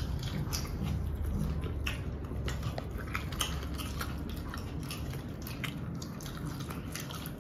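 A person biting and chewing food, with many scattered short mouth clicks.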